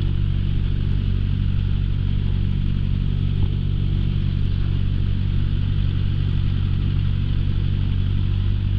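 Light aircraft's piston engine idling steadily, heard from inside the cockpit, while it warms up before takeoff. There is a small click about three and a half seconds in.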